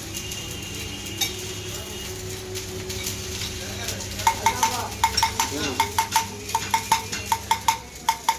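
Light metal-on-metal tapping: quick, sharp, ringing clinks, about three or four a second, starting about halfway through, over a steady machine hum that stops near the end.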